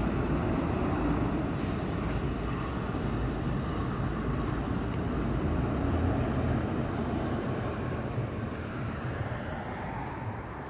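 NJ Transit Multilevel push-pull commuter train with an ALP-46A electric locomotive at the rear, passing at speed: a steady rumble of wheels on rail that fades away near the end as the train goes by.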